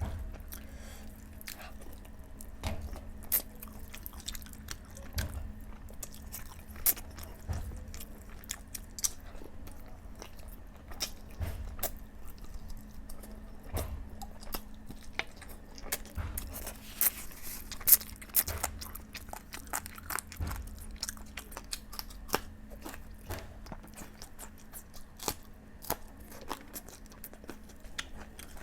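A person chewing and biting food close to the microphone: irregular wet mouth clicks and smacks with occasional crunches, one sharper snap about two thirds of the way through. A faint steady hum lies underneath.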